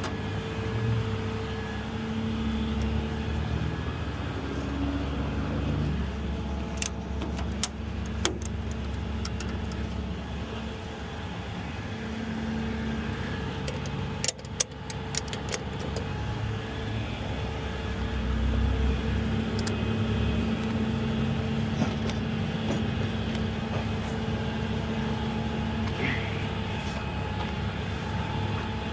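Tow truck engine running steadily, with a few sharp clicks and knocks partway through.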